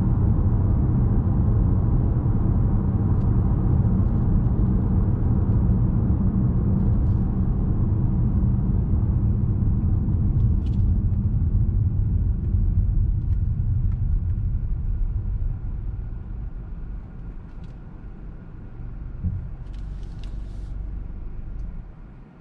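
2017 Lexus RX 200t, with its 2.0 L turbocharged four-cylinder (8AR-FTS), driving: a steady low rumble of engine and road noise that fades down and gets quieter about two-thirds of the way in. A brief thump sounds near the end.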